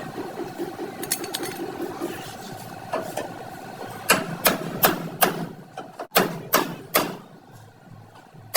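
Hammer blows on car-body sheet metal during denting work: seven sharp ringing strikes starting about four seconds in, in two quick groups of roughly two to three a second, over a steady hum.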